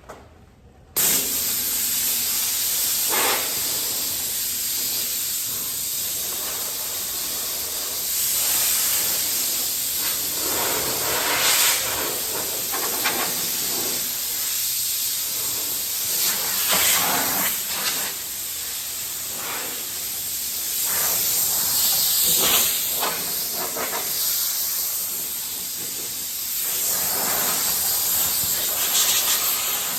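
Compressed-air blow gun hissing as it blows a freshly metho-wiped steel panel dry ahead of epoxy primer. It starts suddenly about a second in, then swells and eases repeatedly.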